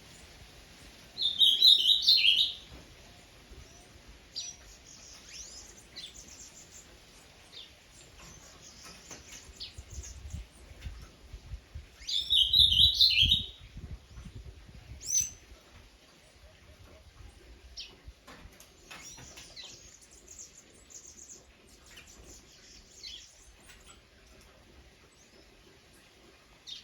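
Wild birds calling. There are two loud, high chattering phrases about ten seconds apart, the first about a second in, with scattered fainter chirps between and after.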